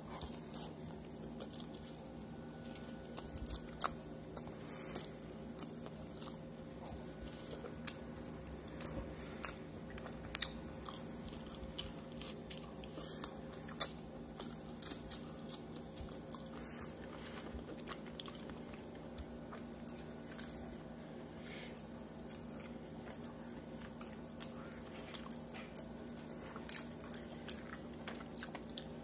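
Close-up eating of street tacos with corn tortillas: chewing and biting, with short crisp clicks and crunches scattered throughout, the sharpest a little after ten seconds in and near fourteen seconds. A steady low hum runs underneath.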